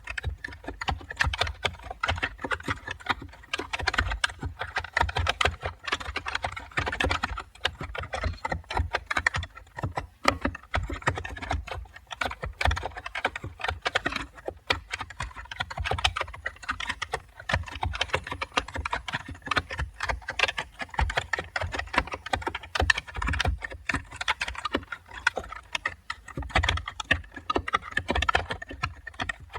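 Continuous typing on a computer keyboard: a steady, dense stream of key clicks, several strokes a second, with no pauses.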